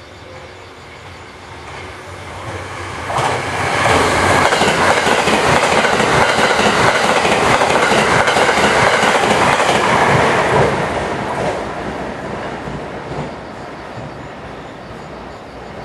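Shirasagi limited-express electric train running through the station at speed: the rush of wheels on rail grows over the first few seconds, stays loud for about six seconds, then fades away as the train leaves.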